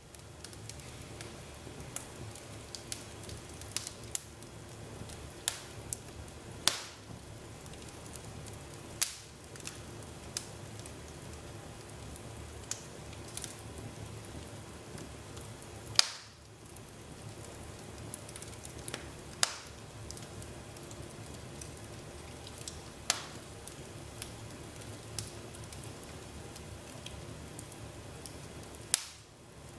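Fire burning in a fireplace: a steady low rush of flames with irregular sharp crackles and pops every second or few seconds, the loudest pop about halfway through.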